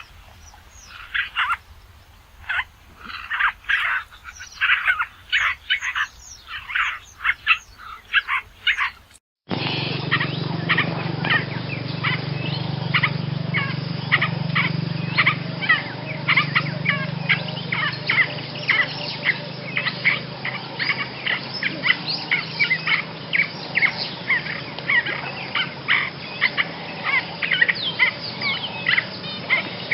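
Basra reed warbler singing in runs of short, quick notes. About nine seconds in, the sound cuts abruptly into a second, duller recording with a low background hum, in which the song carries on faster and more continuously.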